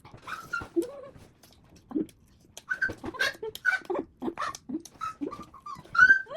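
A dog whining in a series of short, high whimpers that rise and fall in pitch, the loudest near the end, with small clicks in between.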